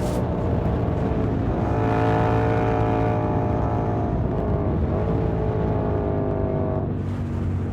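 Yamaha MT-07's 689 cc parallel-twin engine running through an SC Project aftermarket exhaust while riding under throttle. The revs climb, dip briefly and pick up again about four to five seconds in, then fall near the end as the throttle eases.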